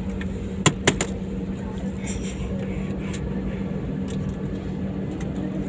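Steady airliner cabin drone of the engines and airflow, with three short sharp clicks about a second in.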